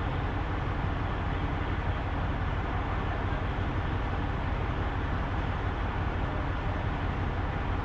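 Semi truck's diesel engine running steadily, a constant low-heavy drone with no changes in pitch or level.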